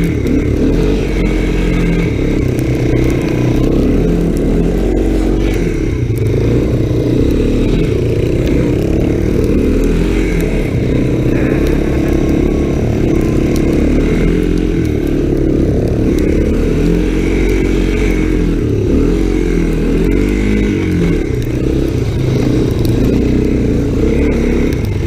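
Honda ATC 250SX three-wheeler engine running under load, its pitch rising and falling over and over as the throttle is worked through turns on a snowy trail.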